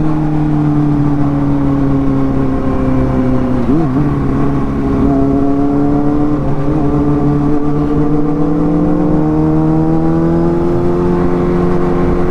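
Motorcycle engine running at a steady cruise, its pitch dipping briefly about four seconds in and then slowly climbing as it speeds up, with wind buffeting the microphone.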